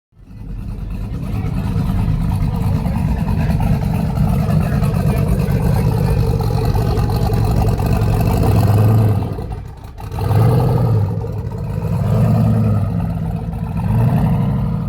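A truck engine running loudly, its pitch rising and falling as it is revved, with a brief dip about ten seconds in.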